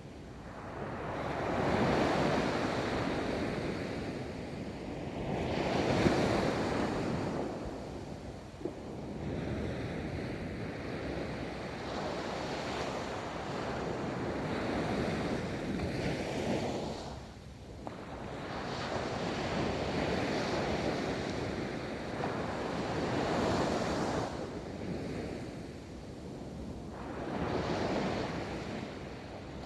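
Ocean waves rolling in and breaking on a beach, a steady wash of surf that swells and fades in surges every few seconds, with wind rumbling on the microphone.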